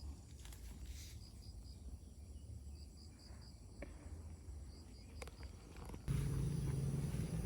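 An insect chirping: short, high-pitched chirps in quick groups of three or four, repeating about every second and a half. About six seconds in, a louder low steady rumble starts suddenly and covers it.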